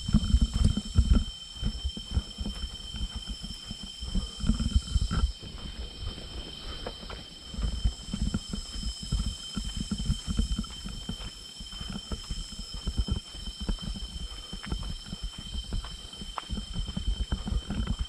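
Forest ambience: a steady, high, shrill insect drone with several constant pitches layered together, over irregular low rumbles and thumps.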